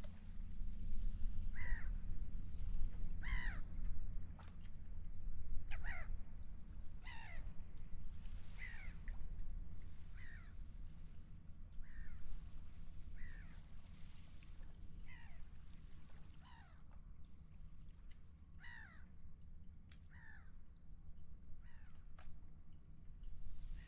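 A large bird, crow or gull, calling over and over, about fourteen harsh calls at roughly a second and a half apart, each falling in pitch. Under it runs a low steady rumble.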